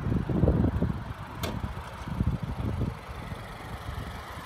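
The Honda Civic Hatchback Sport's 1.5-litre turbocharged four-cylinder engine idling steadily, under low thumping in the first second. A single sharp click comes about a second and a half in.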